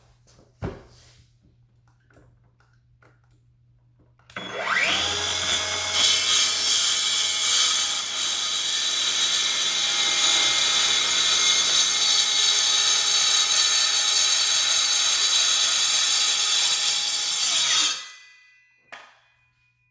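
Skil PWRCore 20V brushless cordless circular saw spinning up with a rising whine about four seconds in, then cutting steadily through timber for about 13 seconds before winding down.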